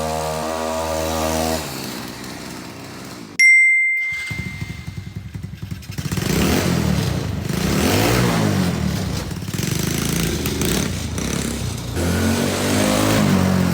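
Small gasoline engines of mini vehicles: one running steadily stops about a second and a half in, then a sharp ringing ding, then another small engine fires up and is revved up and down several times.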